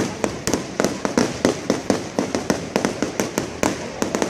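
Fireworks display: a rapid, irregular string of bangs, several a second, from shells bursting overhead.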